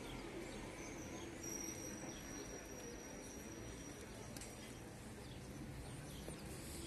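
Faint open-air ambience with birds: a thin high whistling call held for about two seconds, starting about a second and a half in, and a few faint short chirps over a steady low background noise.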